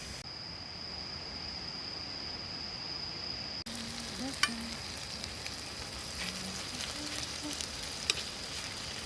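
Food sizzling in a hot pan: a steady hiss with a few sharp pops, the loudest about four seconds in and again near the end.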